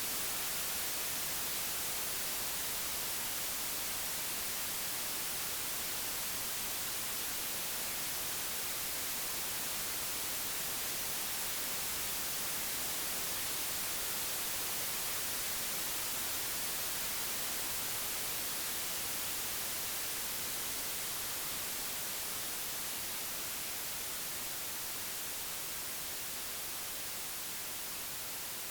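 Computer-generated white noise: an even, steady hiss across all pitches, strongest in the highs, easing slightly in level toward the end.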